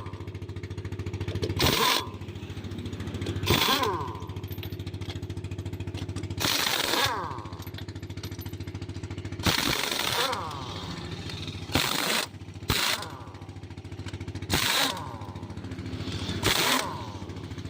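A steady engine or compressor drone with about nine short bursts from an air-powered tool, each lasting about half a second and falling in pitch as it winds down.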